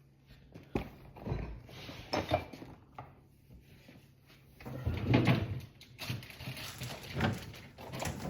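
Irregular knocks and clunks of kitchen cupboard doors and drawers being opened and closed, with a longer scuffing, rummaging sound about five seconds in.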